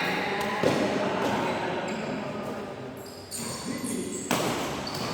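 Badminton racket strikes on a shuttlecock during a rally, sharp hits about a second apart or more, over background voices in a sports hall.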